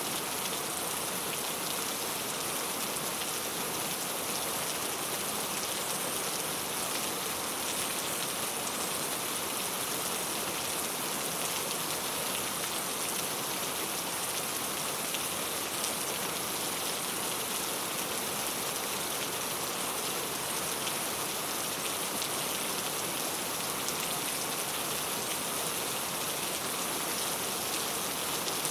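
Steady rain falling on a clay tile roof, a constant hiss with many small drop ticks and no thunder.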